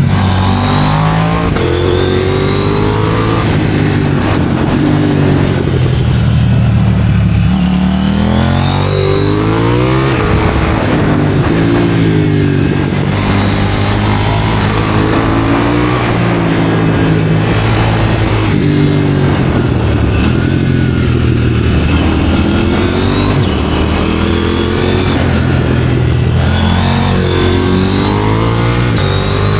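KTM 790 Duke parallel-twin engine breathing through an IXRACE aftermarket exhaust under riding load: revs climb repeatedly, drop sharply at each gear change, and fall away on the overrun, over and over through the stretch.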